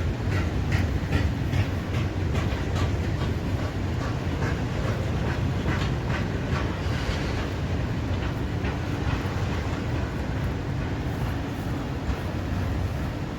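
Freight train rolling past, its wagon wheels clattering over rail joints about two to three times a second over a steady low rumble. The clatter grows fainter about seven seconds in.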